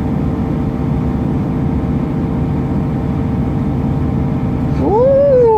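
Steady running noise of a moving passenger train heard from inside the carriage, with a faint steady hum over it. Near the end a voice rises and falls in pitch.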